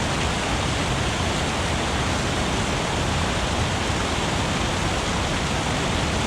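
Steady rushing of river water and a waterfall, an unbroken hiss-like roar with no pauses.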